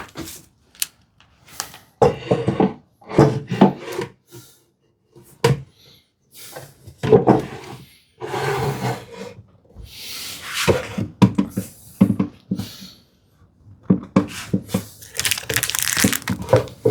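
A hand-made wooden drawer pushed into its tight opening and pulled back out, with a series of knocks and scraping slides of wood on wood. The fit is still too tight: the drawer catches on one side.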